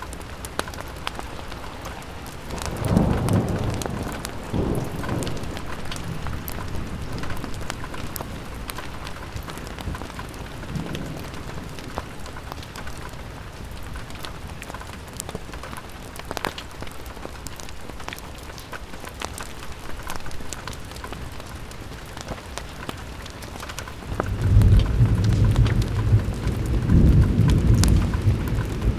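Steady rain pattering on a window, with scattered sharp ticks. Low rolling thunder swells up about three seconds in and again for the last five seconds.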